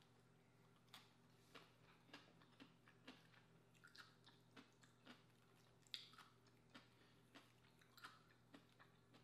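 Close-miked chewing of a slice of vinegar-pickled cucumber: soft, wet mouth clicks and smacks at about two a second, with one louder click about six seconds in.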